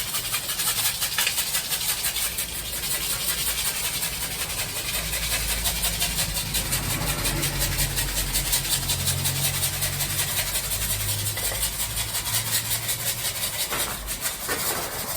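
Granular oil-dry absorbent being shaken out of a can onto a concrete floor: a continuous gritty rattling hiss, with a low hum in the middle.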